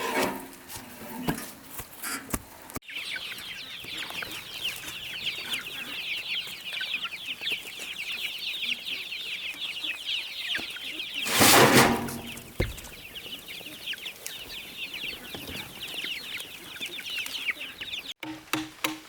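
A flock of chicks peeping together, many short falling peeps overlapping into a dense high chorus. One louder, harsher call comes about eleven and a half seconds in, and scattered taps and clicks come in the first few seconds.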